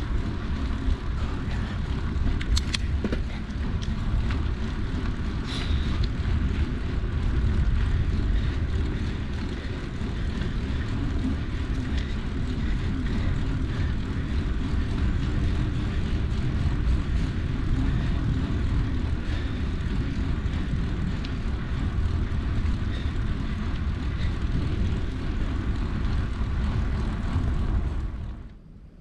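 Mountain bike in motion on a dirt trail: a steady low rumble of wind on the GoPro's microphone and tyres rolling, with a couple of sharp ticks in the first few seconds. The rumble drops away abruptly about a second before the end.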